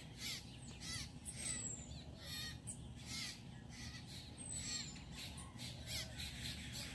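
Birds chirping and calling: many short, quick chirps, several of them sliding in pitch, over a steady low background hum.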